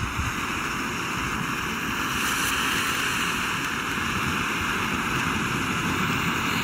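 A fountain firework burning with a steady hiss of spraying sparks, swelling a little over the first couple of seconds and then holding even.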